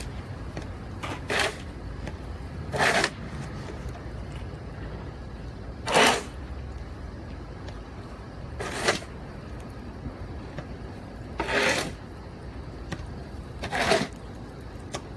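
Two-handled snow shovel scraping through snow in repeated strokes: six short scrapes, about one every two to three seconds, over a steady low background rumble.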